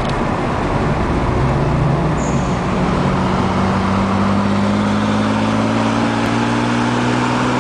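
Car engine running steadily at low revs, heard from inside the cabin, its note rising slowly as the car gathers speed.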